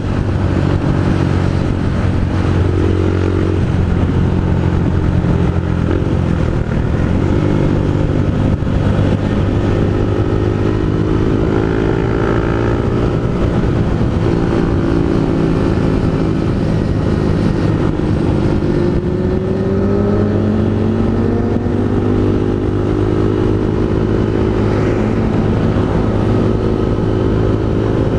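Honda Fan 160 single-cylinder motorcycle engine running through a Pro Tork GP Competition aftermarket exhaust while riding, with a steady exhaust note whose pitch rises gradually about two-thirds of the way through as the bike accelerates.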